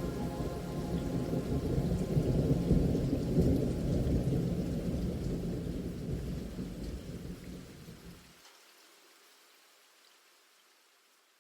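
Rain falling with a long rumble of thunder that swells about two seconds in. The rumble cuts off about eight seconds in, and the rain hiss then fades away.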